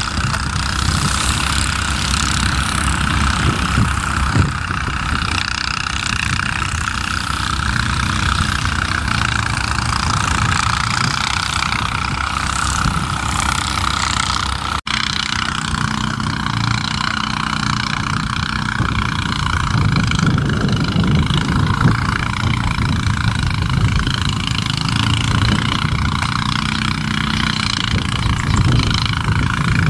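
Distant diesel-hauled train on the line, a steady rumble with hiss. The sound changes abruptly about halfway through, after which a faint engine drone runs on.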